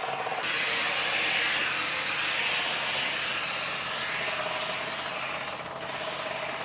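Bissell steam cleaner running with a steady hum. A loud hiss of steam starts about half a second in and dies away after about five seconds.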